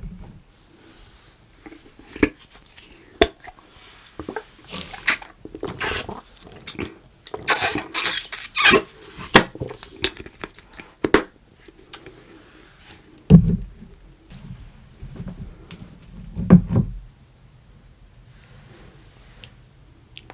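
Clicks, taps and squishing from handling the edible slime candy and its kitchen things, busiest in the middle, with two low thumps in the latter half.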